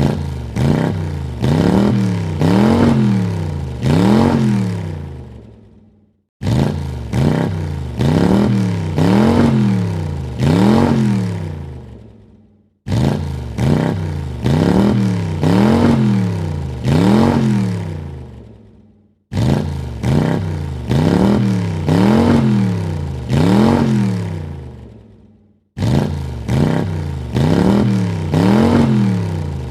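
Car engine revving in four quick throttle blips, each rising and falling in pitch. The same short clip repeats five times, about every six and a half seconds, each time starting suddenly and fading out.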